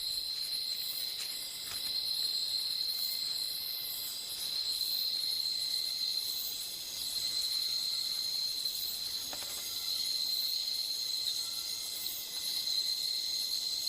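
Night-time tropical rainforest insect chorus, crickets or katydids, trilling steadily in a high-pitched continuous drone with faster pulsing calls layered above it.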